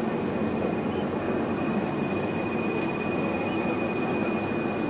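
A standing electric passenger train's equipment running: a steady noise with a thin, high whine held throughout.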